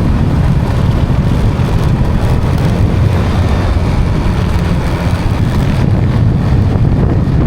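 Steady wind buffeting the microphone over engine and road noise from a moving vehicle. The sound is a dense, even low rumble.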